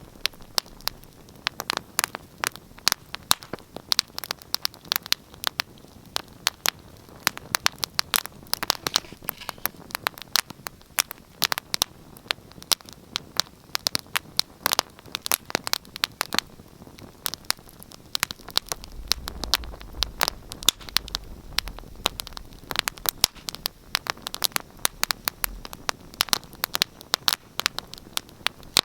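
Wood fire crackling in a fireplace: a dense, irregular run of sharp pops and snaps over a faint hiss, with a soft low rumble about two-thirds of the way in.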